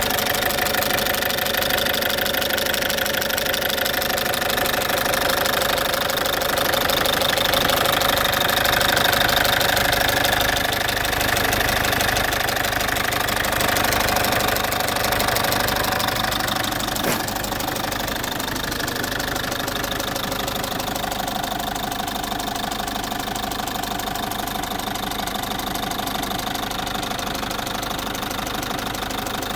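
Citroën C5's 2.0 HDi four-cylinder diesel engine idling, loud, with a steady rhythmic ticking that the owner places around the fuel injectors but is not sure of. A single sharp click about 17 seconds in.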